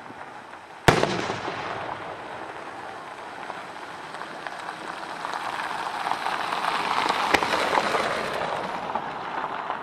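Fireworks display: an aerial shell bursts with a sharp bang about a second in, followed by a dense crackling that swells toward a second bang about seven seconds in.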